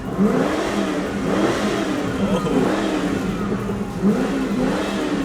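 Car engine revved in three rising-and-falling swells, over a steady low drone.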